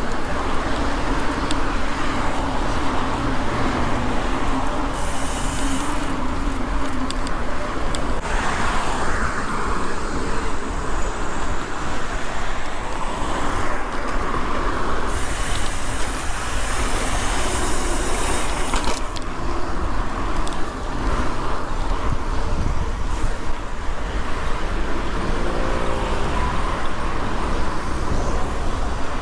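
Road traffic going by, with cars passing now and then, over a steady low rumble of wind on the microphone of a moving bicycle.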